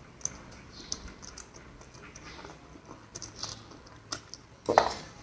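A person eating noodles close to the microphone: soft chewing with small wet clicks and smacks, and one louder mouth sound near the end.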